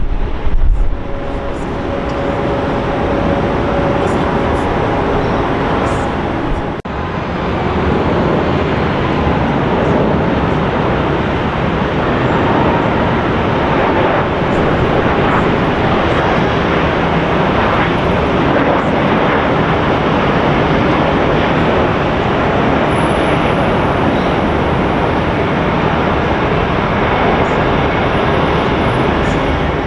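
Jet airliner engine noise: a loud, steady rush, broken by a sudden cut about seven seconds in.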